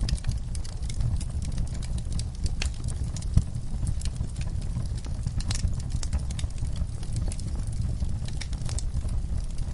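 Wood fire in an outdoor backyard fireplace crackling, with frequent irregular sharp pops over a steady low rumble and one louder pop about three and a half seconds in.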